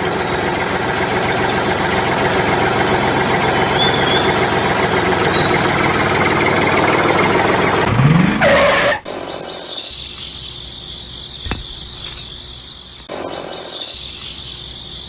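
A small motor-driven machine running steadily. About nine seconds in, the sound drops abruptly to a quieter, high-pitched whine with a few clicks.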